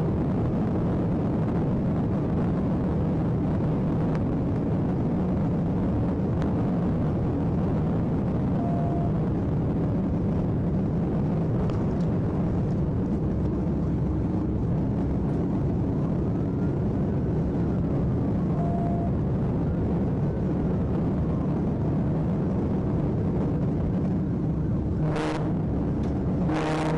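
Police patrol car driving at highway speed: steady engine, tyre and wind noise, with a short beep about every ten seconds and two sharp clicks near the end.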